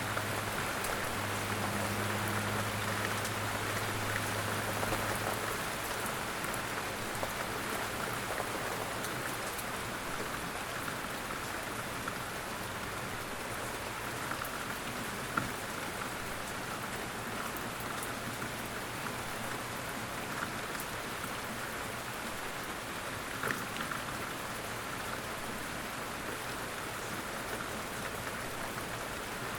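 Steady light rain falling in woodland, with two single louder drips, about halfway through and again some eight seconds later.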